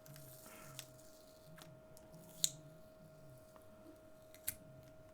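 Faint handling noises from opening a taped package by hand: light rustling with a few sharp clicks and taps, the sharpest about two and a half seconds in and another about a second before the end.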